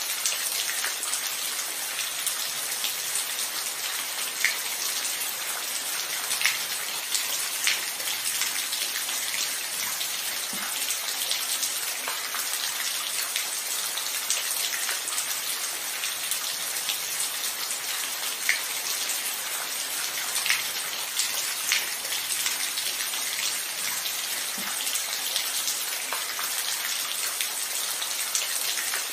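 Steady rain falling, an even hiss of drops with individual louder drops ticking now and then. No thunder.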